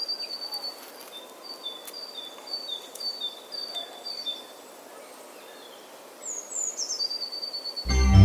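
Bird calling: a repeated two-note chirp, a high note then a slightly lower one, about twice a second, and later a quick falling call. Organ music comes in right at the end.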